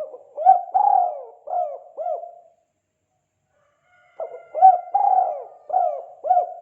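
Spotted dove (tekukur) cooing: two phrases of about five coos each, separated by a pause of under two seconds.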